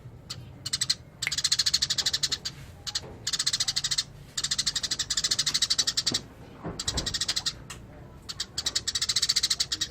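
Eurasian tree sparrow chattering in long runs of very fast, high chirps, three main bursts with short pauses between. A faint low thud about seven seconds in.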